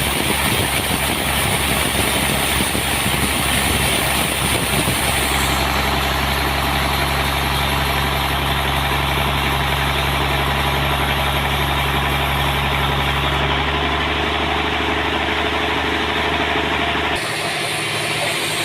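Sawmill engine running steadily. Its note changes about five seconds in, and the lowest part of the sound drops away near the end.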